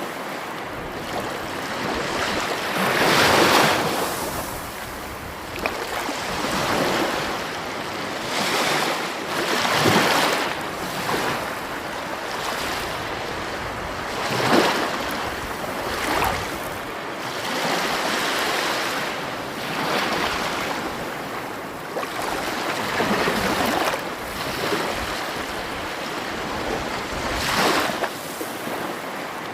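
Sea waves washing onto a shore: a continuous rushing wash that swells into louder breaking surges every few seconds, the biggest about three and a half seconds in, around ten seconds, around fourteen seconds and near the end.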